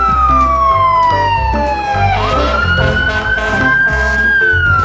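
Fire-engine siren wailing: one slow falling sweep, a quick jump back up about two seconds in, a slow rise, then another fall near the end. Background music with a steady beat plays under it.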